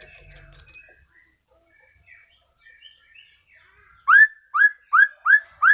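White-rumped shama (murai batu) calling: faint twittering at first, then about four seconds in five loud, identical upward-sweeping whistled notes in quick succession, a little under half a second apart.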